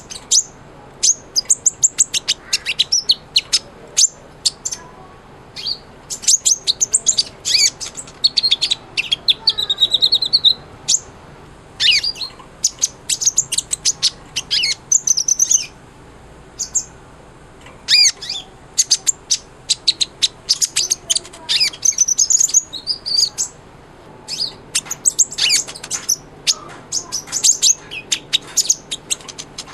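A sunbird, the 'kolibri ninja' of Indonesian bird keepers, singing vigorously: fast runs of sharp, high chirps and short trills in bursts of a few seconds, with brief pauses between. One buzzy trill runs about ten seconds in.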